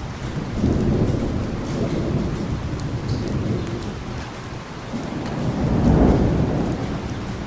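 Thunderstorm: steady heavy rain with two rolls of low thunder, the first starting about half a second in and the second, the louder, peaking about six seconds in.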